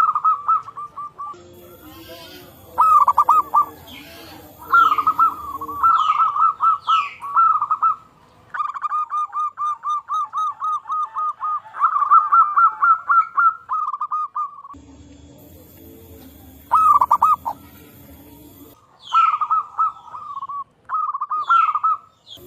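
Zebra doves (local perkutut) cooing, several birds answering one another with runs of repeated coo notes. The longest run is an even string of about three to four notes a second, in the middle. Short falling chirps from another bird come twice.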